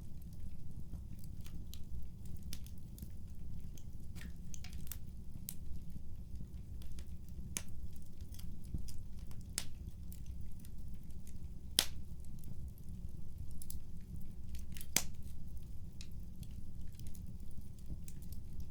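Wood fire crackling in a fireplace: a steady low rumble of burning with irregular sharp pops and snaps, a few louder cracks scattered through.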